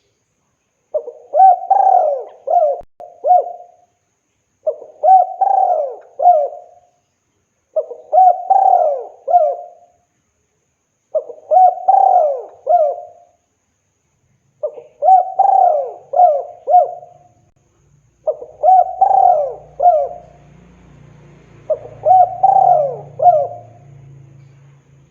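Spotted dove cooing: seven phrases of several coos each, about every three and a half seconds, the male's call to a female. A faint low hum sits under the second half.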